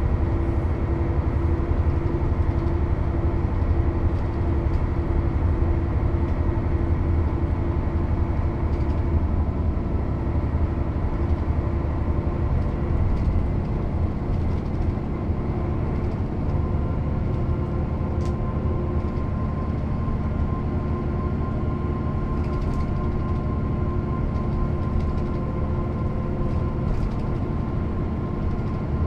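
Mercedes-Benz O 407 city/intercity bus's six-cylinder diesel engine running under way, a steady drone whose tones shift and ease slightly about halfway through.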